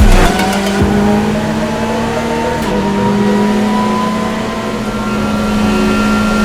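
Race car engine running, its pitch climbing slowly and steadily.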